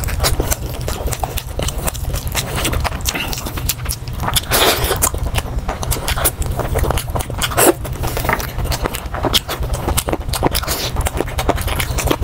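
Close-miked eating sounds: a person chewing and smacking a mouthful of rice and chicken eaten by hand, with dense irregular wet clicks and lip smacks. A few louder bursts come around the middle.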